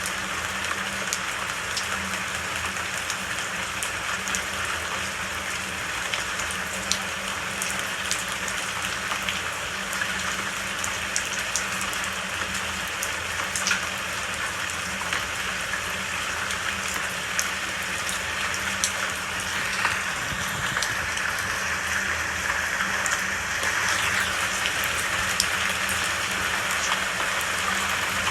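Steady rain falling, with many individual drops ticking sharply against a surface over the even hiss. It grows slightly heavier near the end.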